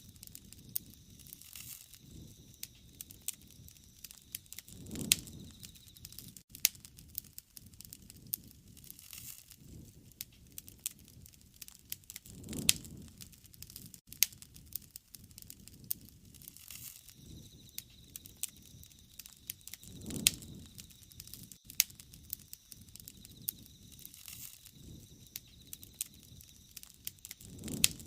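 Wood fire burning: a steady crackle of sharp pops and snaps from the burning wood, with a soft low rush swelling up about every seven or eight seconds.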